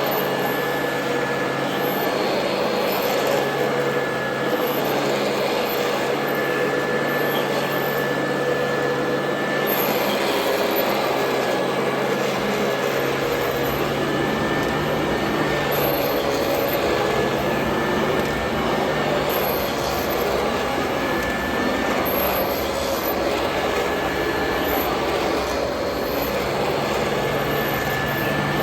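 Royal Model 2008 upright vacuum cleaner running continuously, a steady motor whine with its pitch wavering slightly.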